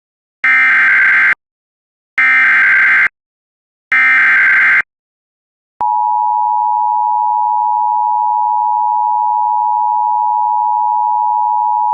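NOAA Weather Radio emergency alert: three short bursts of warbling SAME digital header data, then the steady single-pitch Warning Alarm Tone, which signals that a warning message (here a severe thunderstorm warning) is about to be read.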